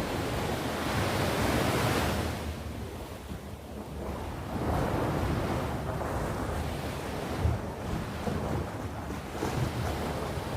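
Sea waves breaking and washing on the shore, the surf swelling and easing off in slow surges, with a low wind rumble underneath.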